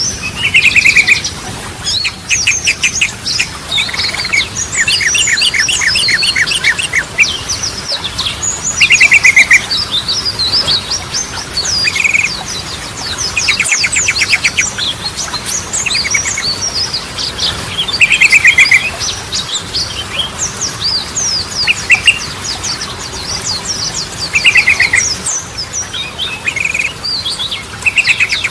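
Yellow-vented bulbul (trucukan) singing continuously: fast chattering phrases of quick up-and-down notes, broken every few seconds by short rapid trills.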